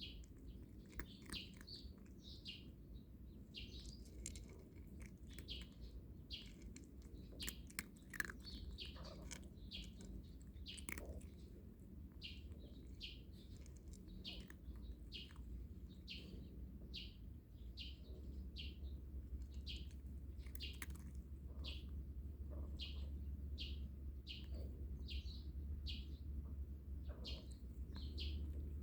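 A small bird chirping over and over, short high calls coming a little more than once a second, over a low steady rumble that grows louder about two-thirds of the way through.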